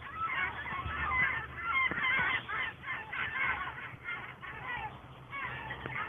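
A flock of birds calling together: a dense, overlapping chatter of short, honking calls.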